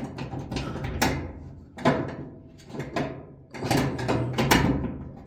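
Dryer parts being handled and moved about, clattering and scraping in several separate bursts with sharp knocks, the loudest about four and a half seconds in.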